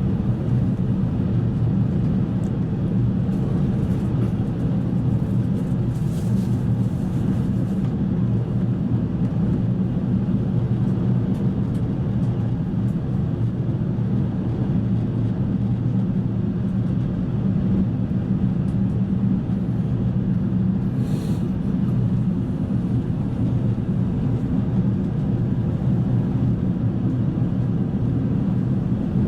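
Steady drone inside an Airbus A380 passenger cabin: engine and airflow noise holding at an even level, deepest and strongest in the low range.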